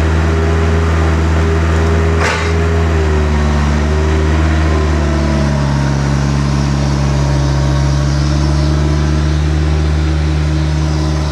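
A vehicle engine running steadily and loudly, with a single sharp knock about two seconds in; over the next few seconds the engine's pitch drops as it settles to lower revs.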